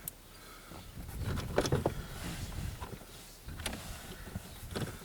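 Handling noises under a car dashboard: scattered plastic clicks and knocks with rustling as a headlight switch is worked back into its mounting.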